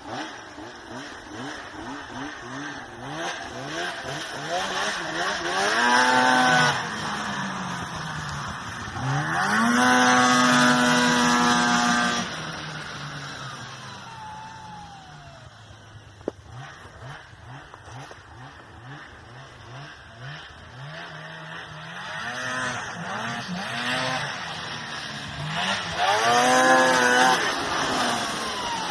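Arctic Cat ZR800 snowmobile's two-stroke twin engine revving up and down repeatedly. Its pitch climbs to high revs and is loudest about 6 seconds in, from about 9 to 12 seconds, and again near the end, with quieter lower running in between.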